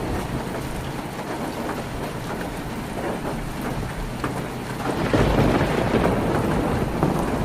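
Heavy rain falling on a tin roof, a dense steady patter that swells louder about five seconds in.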